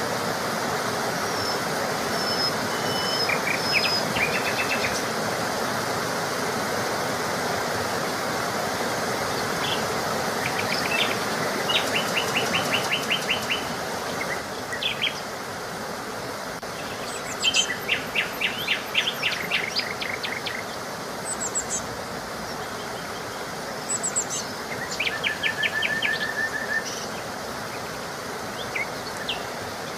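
Small songbirds singing short, fast trilled phrases, repeated many times, over a steady rush of running water. The water sound eases off about halfway through.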